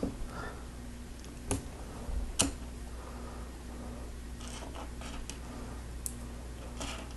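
Small plastic Lego pieces clicking as they are handled and pressed together, a few sharp clicks, the two loudest about a second and a half and two and a half seconds in, with fainter taps near the end.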